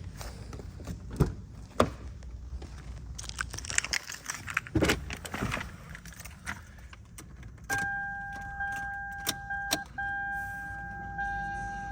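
Car keys jangling with several clicks and knocks, then from about eight seconds in the car's steady electronic warning chime sounds, one even tone that breaks off once briefly and carries on.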